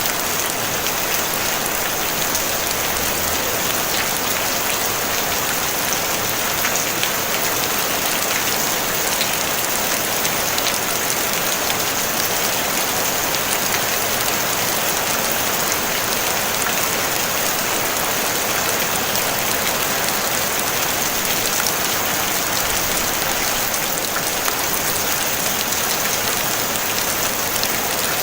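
Steady rain on a tin roof, a dense even patter of drops that holds unchanged throughout.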